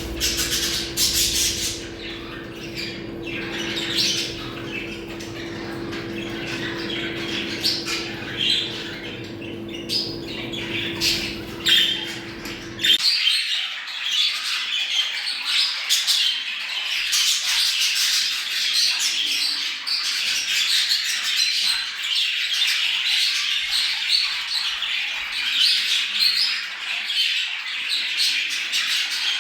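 Budgerigars chattering continuously, a dense mix of warbles, chirps and squawks. A steady low hum runs underneath for the first half and stops suddenly about halfway through.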